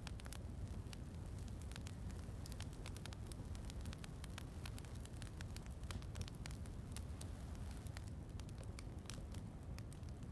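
Wood fire crackling with many small, sharp pops, over a steady low rumble and hiss of rain.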